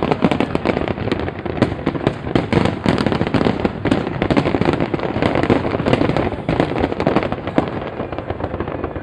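Fireworks display: a rapid, continuous barrage of bangs and crackling, many reports a second, easing off slightly near the end.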